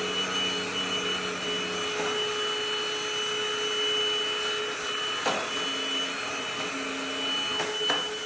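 SVHT V15 cordless stick vacuum running steadily, its motor giving a constant high whine over a hum. There are a few short knocks about five seconds in and again near the end.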